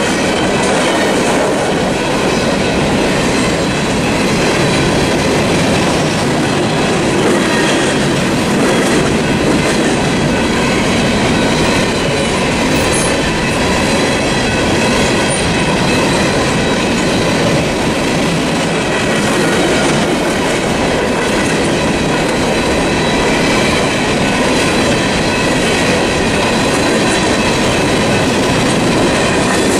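Empty coal hopper cars of a freight train rolling steadily past, their wheels clattering and rumbling over the rails.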